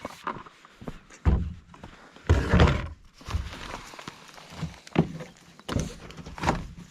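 Irregular thuds and knocks from a plastic angling kayak and its gear being handled. The heaviest is a longer, rumbling thud about two and a half seconds in, with single knocks before and after it.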